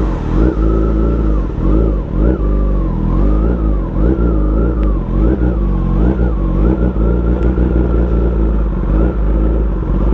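Kawasaki ZX-10R inline-four sportbike engine under way, its revs rising and falling again and again with the throttle, over a steady low rumble.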